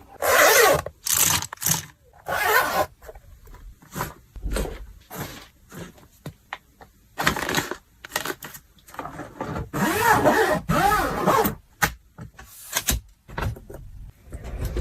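Things being handled while packing: an uneven series of short rustles, scrapes and clicks, with a longer crinkling stretch about ten seconds in.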